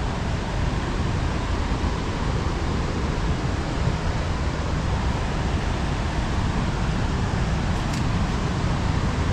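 Waterfall in full flow after heavy rain, a steady loud rush of falling water that does not change.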